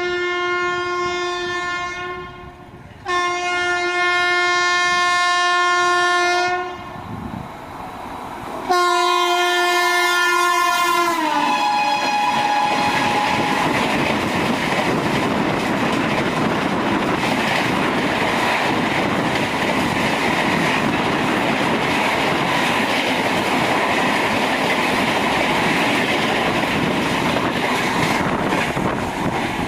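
Indian Railways train horn sounding three long blasts, the last one dropping in pitch as the train reaches and passes. It is followed by the steady rumble and clatter of the train running past on the track.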